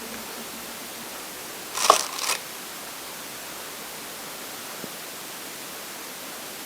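Steady static hiss, with a brief clatter of two or three sharp knocks about two seconds in.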